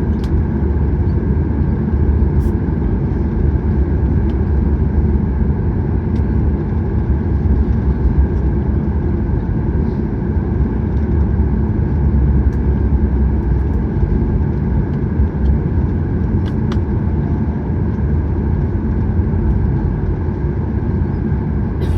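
Cabin noise inside a Boeing 737-800 with its CFM56 engines idling after landing: a steady low rumble, with a few faint clicks and rattles.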